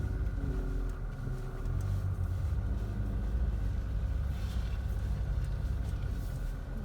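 Jeep SUV driving slowly over a sandy dirt track, heard from inside the cabin as a steady low rumble of engine and tyres, with a few faint rattles.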